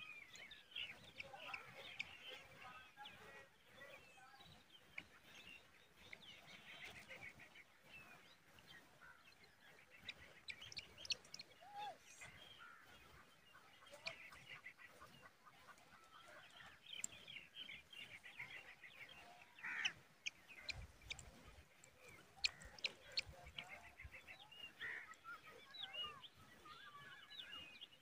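Faint bird calls: bursts of quick, high chattering chirps recurring every few seconds, with a few sharp ticks between them.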